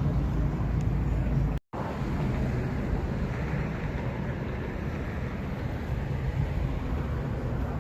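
A car engine idling with a steady low rumble. The sound cuts out completely for a split second about a second and a half in, then continues as a steadier, noisier rumble.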